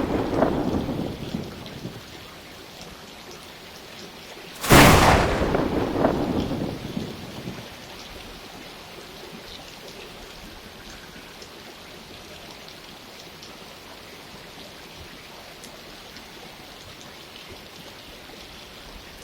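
Steady rain falling, with a sharp thunderclap about five seconds in that rumbles away over about three seconds. An earlier clap is still fading out at the start.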